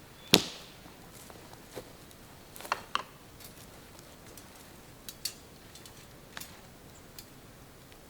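Scattered sharp clicks and knocks: one loud one about a third of a second in, then a handful of fainter ones spread irregularly over the next several seconds.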